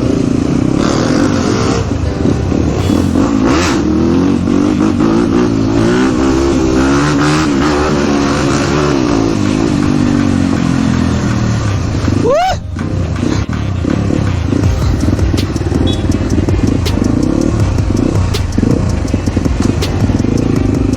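Several dirt bike engines running and revving as the group moves off, the pitch rising and falling with the throttle.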